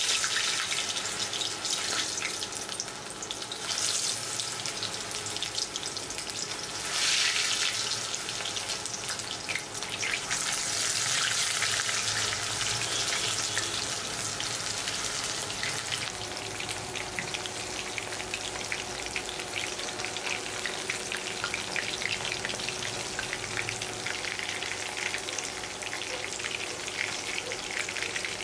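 Food frying in hot oil in a pan: a steady crackling sizzle that swells louder several times in the first half.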